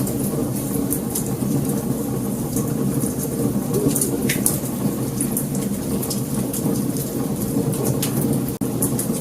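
Wood fire burning, with a steady low rush of flames and scattered sharp crackles and pops. A split-second dropout comes near the end.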